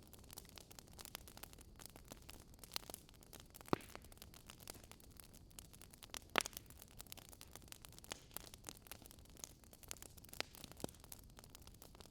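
Wood fire crackling softly: a faint hiss with irregular small snaps and pops, two louder pops about a third and half of the way in.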